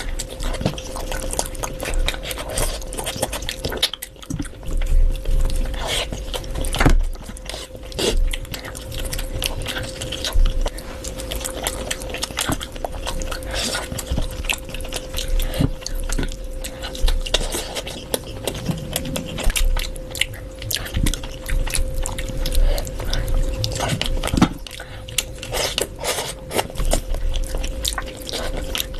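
Close-miked eating: a person chewing, biting and crunching on chicken, mutton curry and fried rice, with many sharp, wet mouth clicks spread throughout. A steady low hum runs underneath.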